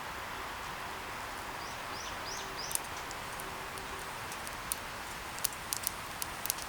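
Steady outdoor ambience with a hiss of wind. About two seconds in, a bird gives four short high chirps, and after that comes a scatter of sharp, irregular clicks and pops.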